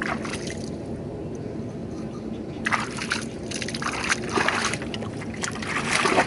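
Fiat DT 45-66 tractor's three-cylinder Iveco diesel running steadily, with wet mud and water sloshing and splashing in irregular bursts from about two and a half seconds in.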